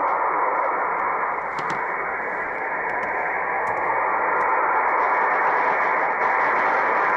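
Shortwave ham transceiver's receive audio on the 20-metre band: a steady hiss of band noise with light static crackles, squeezed into the narrow voice passband of single-sideband reception while no station is talking.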